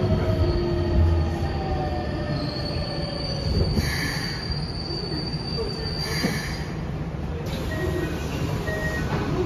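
Keikyu 600 series train with Mitsubishi GTO inverter drive, heard inside the car as it slows into a station: the motor tone slides slowly down in pitch over rumbling running noise. A thin high squeal joins for a few seconds in the middle.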